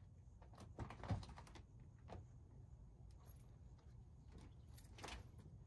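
Near silence, with a few faint clicks and taps.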